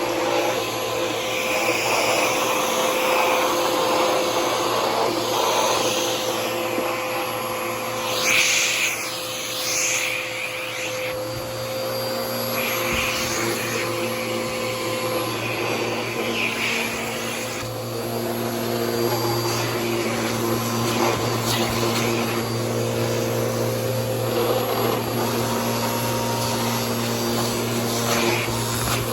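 Bissell PowerForce Helix upright vacuum cleaner running steadily, its motor hum under the rush of suction air. The airflow surges louder in short bursts a few times, as the nozzle is worked over the surface.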